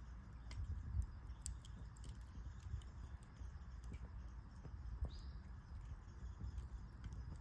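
Wood fire burning over a low steady rumble, crackling with scattered sharp pops, plus a brief high squeak about five seconds in.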